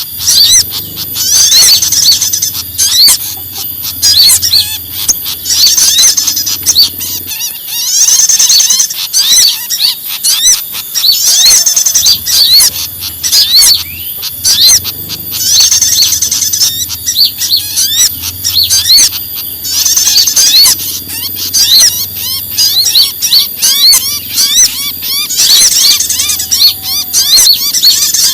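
Small songbirds calling in agitated alarm, layered as a bird-lure track: a dense, unbroken run of rapid high chirps and trills, with a bright burst of sharp notes about every two seconds.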